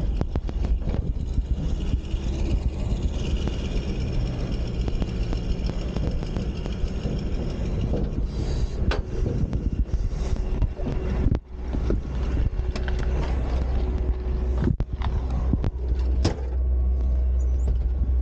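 Dump truck running and driving, a steady low drone with frequent knocks and rattles, briefly dropping away about eleven seconds in.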